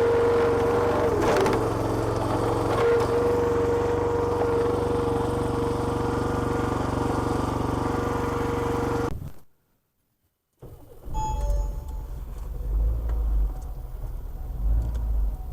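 A petrol engine driving a log splitter's hydraulic pump runs steadily with a high steady whine, then cuts off abruptly. After a second of silence comes the low rumble of a car heard from inside the cabin.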